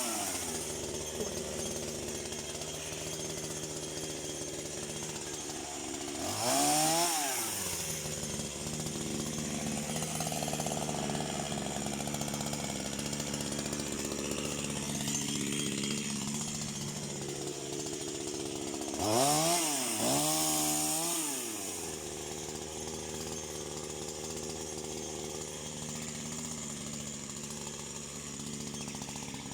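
Chainsaw engine idling steadily, revved up and back down once about seven seconds in and twice in quick succession around twenty seconds in.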